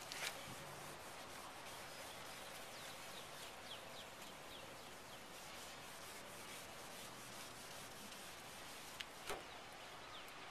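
Rag rubbing toothpaste over a plastic headlight lens, a steady faint scrubbing with short faint squeaks. Two sharp knocks, one just after the start and one near the end.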